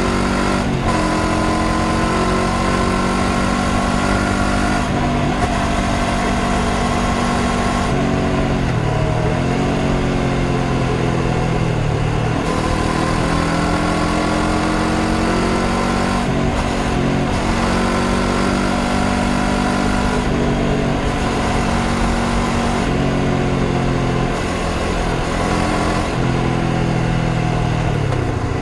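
Honda CBR500R's parallel-twin engine under way, its pitch sinking and climbing again about four times as the revs change, over a steady rush of noise.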